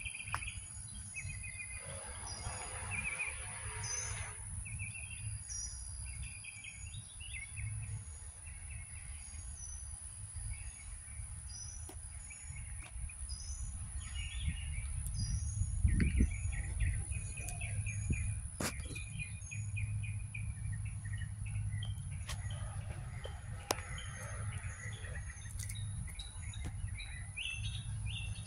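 Songbirds singing and chirping in short repeated phrases throughout, over a steady low rumble.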